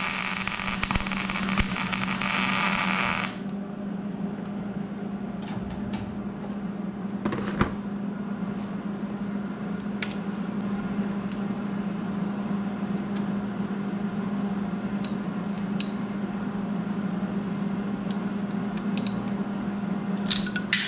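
MIG welder arc crackling and hissing as a nut is welded onto a broken exhaust manifold stud, a second try after the first twisted off; the arc stops suddenly about three seconds in. After that a steady low hum continues, with scattered light clicks and taps.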